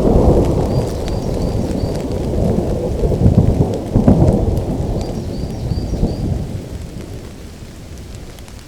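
Thunder rolling over steady rain; the deep rumble dies away over the second half, leaving the rain. Two short runs of faint high chirps sound through it, about a second in and again about five seconds in.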